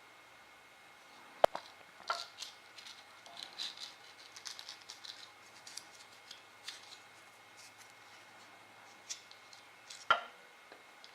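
Small hard parts being handled: light clicks and rattles, with a sharp click about a second and a half in and another near the end.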